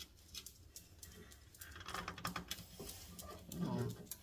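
Scattered light clicks and taps of hand work on a car's headlight trim. A brief low sound, like a faint grunt or mumble, comes near the end.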